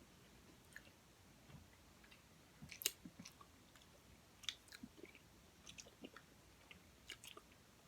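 Faint, close-up mouth sounds of someone eating cotton candy: scattered soft clicks and smacks, with a small cluster about three seconds in and more through the second half.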